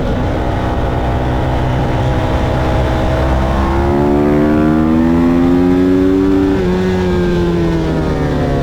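Motorcycle engine running hard on a race track: the revs climb for a couple of seconds, drop sharply at a gear change about two-thirds of the way through, fall away, then begin rising again near the end.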